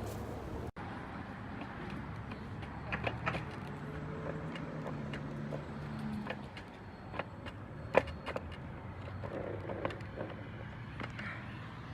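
Street traffic: motor vehicles running with a steady low hum and shifting engine tones, with scattered sharp clicks and knocks.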